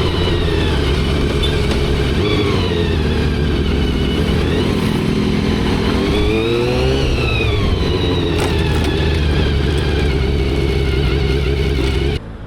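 Motorcycle engine running under way, its pitch rising and falling with the throttle, most clearly a rise and fall about six to seven seconds in, over wind and road noise. The sound cuts off abruptly near the end.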